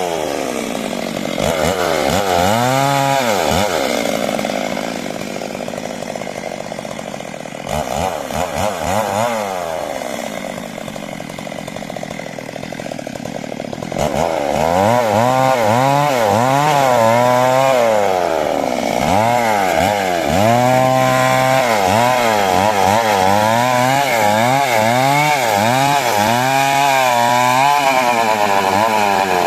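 Stihl MS 382 two-stroke chainsaw cutting timber, its engine pitch repeatedly rising and falling as it revs up and bogs under load. It runs quieter through the first half and louder from about halfway, with quicker swings in pitch.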